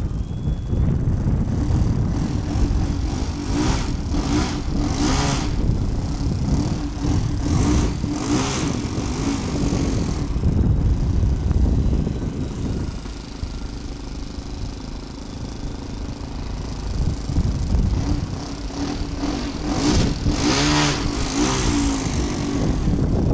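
Electric outrunner motor and propeller of an RC Cessna 185 model plane flying past twice, a few seconds in and again near the end, a buzzing tone that wavers in pitch as it passes. Heavy wind rumble on the microphone runs under it.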